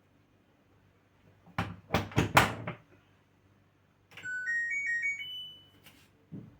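A quick cluster of four or five thuds and knocks on the LG washing machine, then its electronic power-on tune: a short run of beeping notes that steps upward in pitch and lasts under two seconds.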